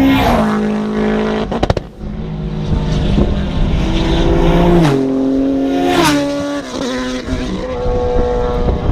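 Time-attack race cars running hard past the track, their engine notes stepping and falling in pitch as they go by and change gear. There is a quick run of sharp cracks just under two seconds in and another sharp crack about six seconds in.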